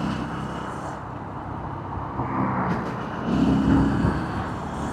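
Motorcycle riding in slow, heavy traffic: engine running under steady road noise, with the engine note growing louder for about a second, some three and a half seconds in.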